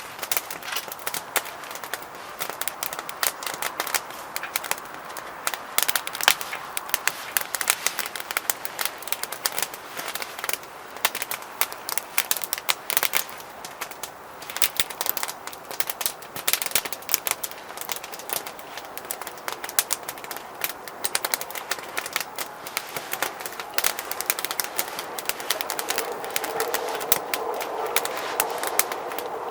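Wood fire crackling in a solo fire pit, with rapid, irregular snaps and pops throughout. Near the end a bird calls in the background.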